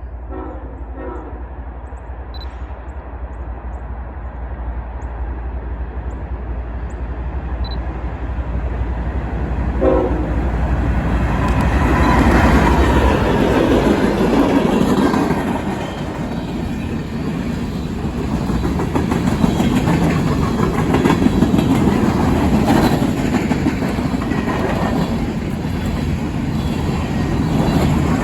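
Freight train led by two CN diesel locomotives approaching and passing, growing steadily louder over the first dozen seconds. Brief horn sounds come near the start and again about ten seconds in, then the locomotives' rumble gives way to the steady rattle of loaded coal cars clattering over the rail joints.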